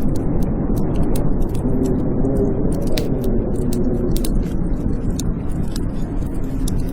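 Wood fire crackling with many sharp pops and snaps over a steady low rush of blizzard wind, which howls with a wavering tone in the middle.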